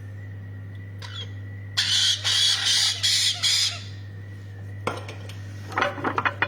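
Young parrot squawking harshly, a quick run of about five calls starting about two seconds in, typical of a hand-reared chick begging for formula. Near the end come several quick clattering clicks.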